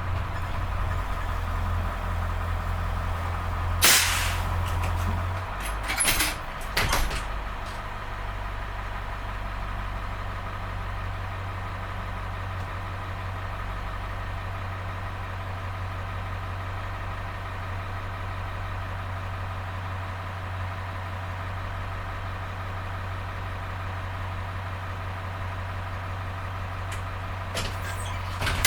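International T444E turbo-diesel V8 in a school bus running steadily at an even pitch. Several short, sharp sounds cut in about four, six and seven seconds in, and again just before the end.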